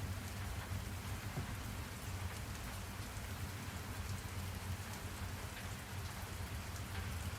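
Steady rain: an even hiss with scattered drop ticks and a low rumble underneath.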